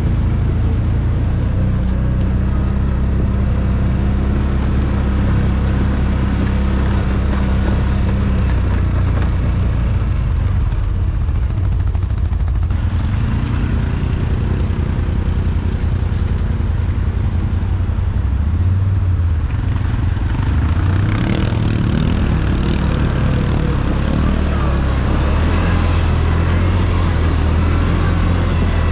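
ATV engine running while riding, its pitch dipping and rising with the throttle about two-thirds of the way through.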